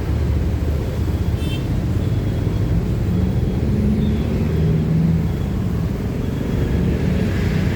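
Steady low rumble of passing vehicles, with engine tones that swell and fade over a few seconds.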